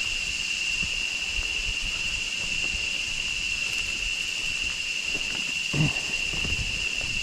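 A steady, high-pitched drone of jungle insects, of one unchanging pitch, over low rumbling. A brief low sound comes about six seconds in.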